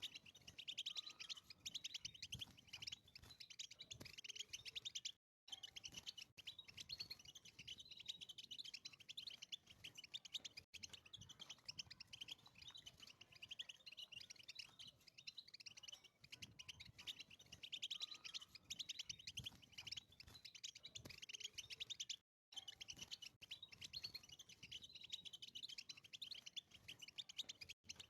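European goldfinch singing a long, fast twittering song. It cuts out abruptly for a moment twice, about five seconds in and again past twenty seconds.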